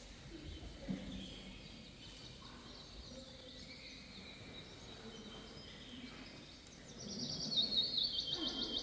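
Faint birdsong: quick, high chirps and trills, louder near the end.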